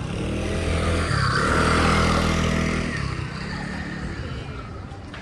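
A motor vehicle drives past close by. Its engine grows louder, drops in pitch about a second in, and fades away over the next couple of seconds.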